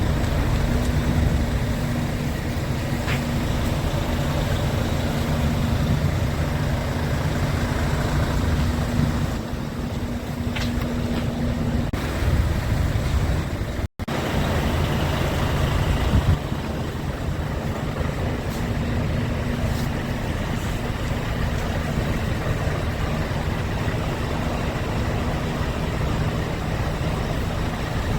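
Scania P410 concrete mixer truck's diesel engine running steadily with a low rumble and a constant hum. The sound breaks off for an instant about halfway through, then carries on the same.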